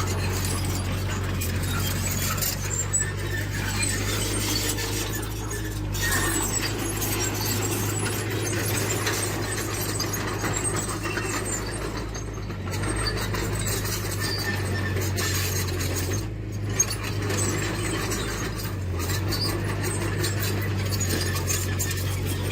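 Tracked earthmoving machine at work: its diesel engine runs steadily under continuous metallic clinking and squeaking from its steel crawler tracks.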